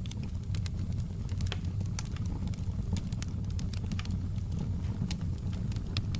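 Crackling wood fire: a steady low rumble under many irregular sharp crackles and pops.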